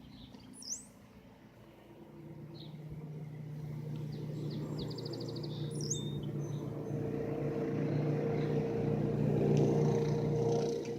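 A four-wheeler (ATV) engine approaching at a steady pitch, growing steadily louder from about two seconds in and falling off suddenly at the very end. Birds chirp now and then.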